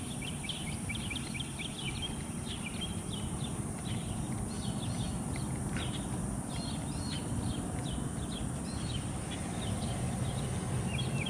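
Birds chirping, many short calls in quick succession, over a low steady rumble.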